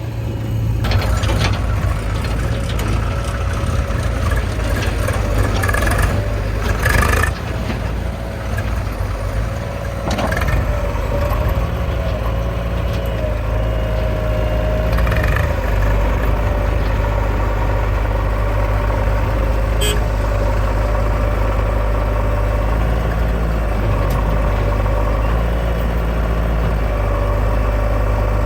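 Heavy diesel machinery engine running steadily, with a few sharp knocks in the first ten seconds or so.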